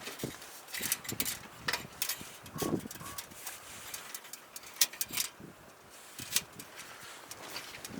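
Irregular clicks, knocks and rustles at an uneven pace, with a brief low tone about two and a half seconds in.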